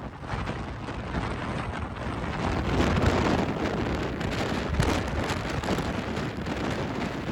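Strong wind buffeting the microphone: a gusting rush of noise that swells about three seconds in.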